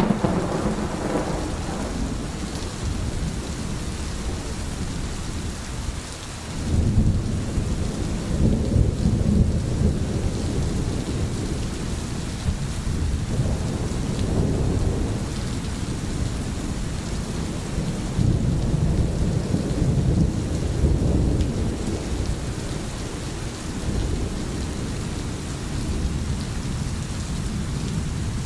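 Steady rain, with thunder rolling underneath: a fading crash at the start, then low rumbles that swell and die away several times.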